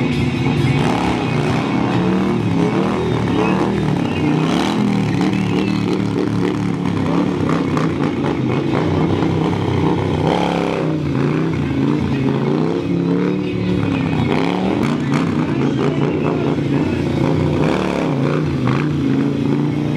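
Harley-Davidson Sportster V-twin engine revving up and down again and again as it is ridden through stunts, with a sharp rise in revs about halfway through.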